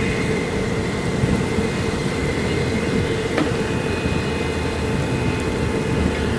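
Steady mechanical drone with a constant whine held over a dense rushing noise, unchanging throughout.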